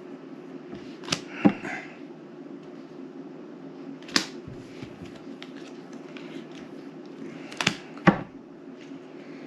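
Playing cards being put down on a tabletop during a card game: five sharp taps at uneven intervals, two close together near the start and two more about three-quarters of the way through, over a steady low hum.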